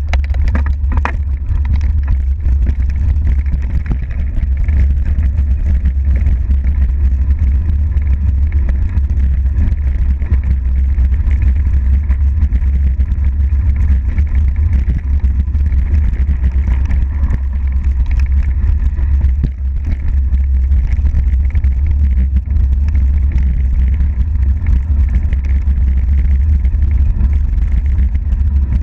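Mountain bike descending a dirt trail, heard from a camera mounted on the rider or bike: a steady low wind rumble on the microphone over the hiss of knobby tyres on dirt and the bike's chatter, with a few sharp knocks.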